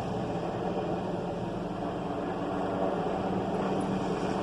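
Helicopter in flight, a steady drone of engine and rotor.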